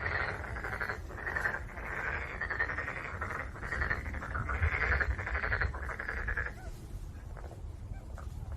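Black-spotted pond frog calling in repeated bursts of rapid, pulsed croaks that stop about three-quarters of the way through, over a low rumble.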